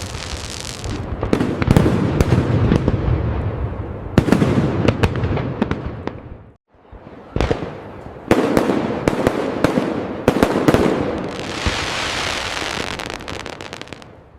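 Fireworks display: a run of booming aerial bursts, each trailing into crackling, with several sharp bangs close together after the middle. There is a brief gap of silence about halfway through and a long hissing crackle near the end.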